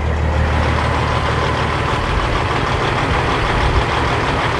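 Kenworth W900L semi truck's diesel engine idling steadily, a constant low rumble.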